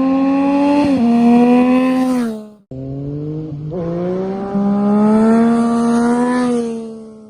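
Motorcycle engine accelerating hard, its pitch climbing, with a quick upshift about a second in; it cuts off suddenly, then a second run accelerates through another shift and climbs again before fading near the end.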